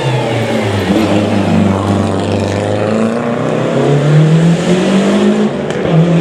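Gravel rally car's engine revving hard under acceleration. The pitch climbs, drops sharply at a gearchange near the end, and climbs again.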